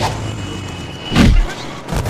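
A single heavy thud a little over a second in, over background film music.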